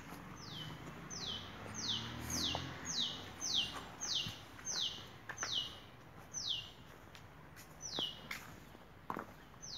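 A bird calling a long run of short notes that each fall sharply in pitch, about two a second for over a dozen notes, then spacing out with gaps near the end. A few faint knocks sound alongside.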